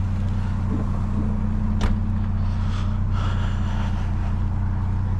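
Steady low drone of a vehicle's engine running, heard from inside the cab, with a single sharp click about two seconds in.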